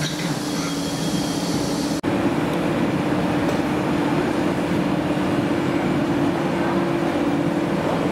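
CP Intercidades train of stainless-steel coaches rolling slowly along the platform, a steady hum with a constant low tone. About two seconds in, the sound dips for an instant at a cut and comes back slightly louder.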